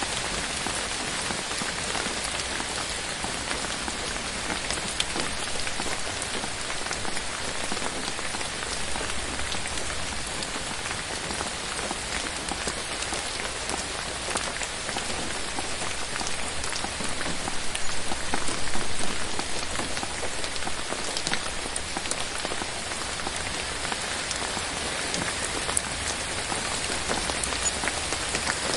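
Steady rain falling, an even hiss dotted with many separate drop hits. It grows briefly louder a little past halfway through.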